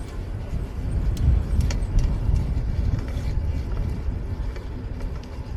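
Riding noise on a bike-mounted camera during a fixed-gear ride: a deep, gusting rumble of wind on the microphone mixed with road and city traffic noise, with a few light clicks.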